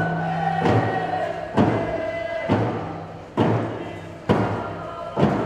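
A group of Tlingit singers singing a Kiksadi clan song over a steady drum beat, about one strike a second, with held sung notes between the strikes.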